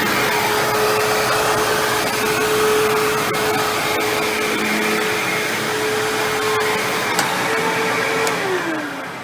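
Hoover WindTunnel self-propelled bagless upright vacuum running with a steady motor whine. Near the end it is switched off, and the motor pitch falls as it spins down.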